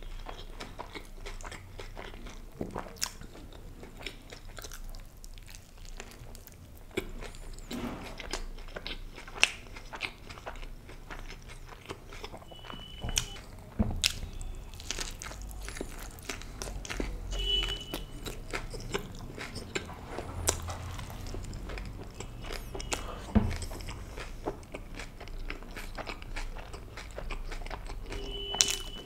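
Close-miked chewing and biting of a soft tortilla wrap, with many short wet mouth clicks and smacks scattered throughout.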